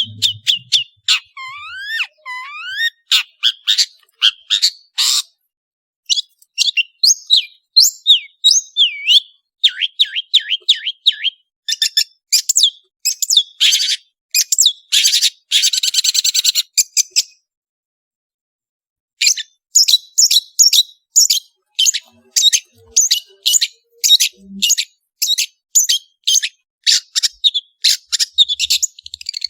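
Long-tailed shrike singing a fast, varied song: sharp chirps and rising whistled sweeps, a dense buzzy trill in the middle, a pause of about two seconds, then a quick run of short chirps.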